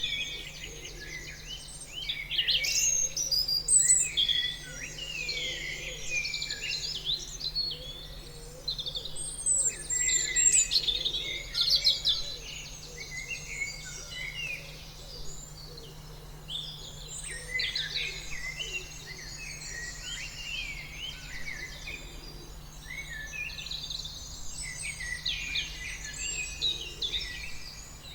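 Several small birds chirping and singing at once: a dense, continuous chorus of quick chirps and trills, louder in clusters at intervals.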